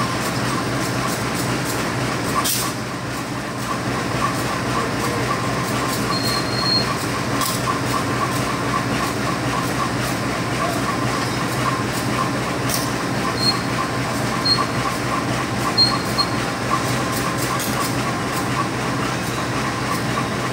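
Stainless-steel passenger train coaches rolling slowly into the station, a steady rumble of wheels on rail with a few short high squeals.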